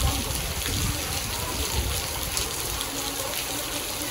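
Tropical-storm rain falling steadily on a wet paved street, with a low fluctuating rumble underneath.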